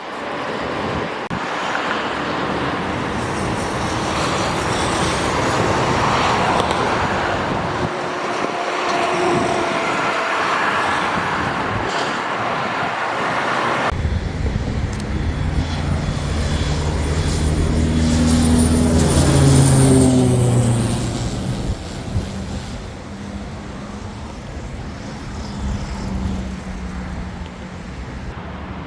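Cessna 208B Grand Caravan's single turboprop engine on its landing approach, a steady drone that grows louder and then drops in pitch as it passes, loudest about twenty seconds in.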